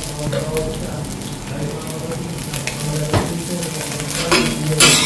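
Fried rice and tinapa (smoked fish) sizzling on a hot steel flat-top griddle, with a few sharp metal spatula clicks and scrapes on the plate about three seconds in and near the end.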